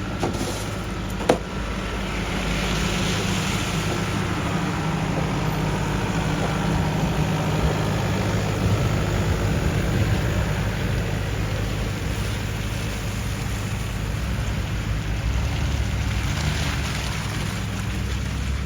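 A road vehicle's engine running steadily on the street, with a single sharp knock about a second in.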